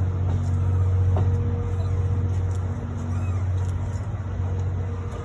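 A locomotive-hauled passenger train pulling out of a station, giving a steady low hum with a few faint clicks.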